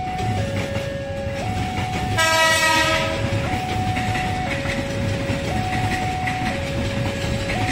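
A horn blasts once for about a second, about two seconds in. Under it, a two-note electronic warning tone alternates high and low, each note held about a second, over a low rumble.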